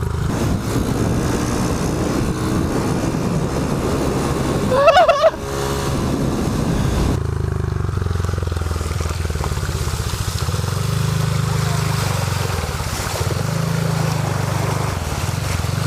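Small motorcycle engine running steadily under the rider. About five seconds in comes one short, loud, high-pitched call that bends upward.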